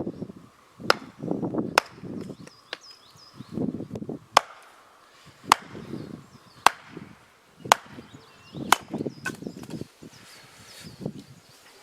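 Wood being chopped for a campfire: sharp strikes roughly once a second, with rough crunching of wood between them. Small birds chirp faintly now and then.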